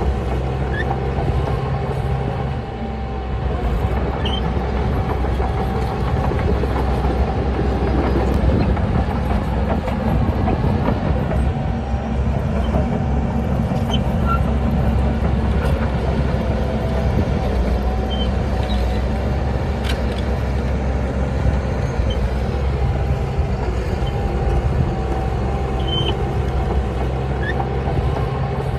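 Shantui DH17C bulldozer's diesel engine running under load, its note shifting every several seconds, with a steady wavering whine over it.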